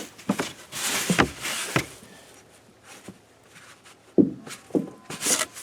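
Fabric rustling as a wool blanket is spread out and handled, with a few dull thumps about four to five seconds in.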